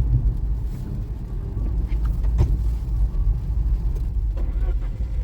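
Car driving, a steady low rumble of engine and road noise, with a short click about two and a half seconds in.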